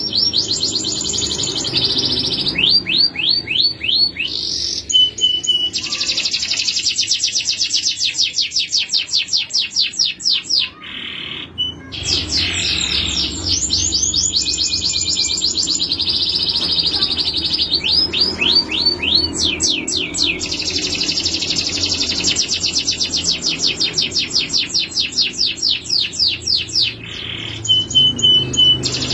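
Male canary singing a long, continuous song of rapid trills and rolls, with fast runs of down-slurred notes, broken by a short pause a little over a third of the way through.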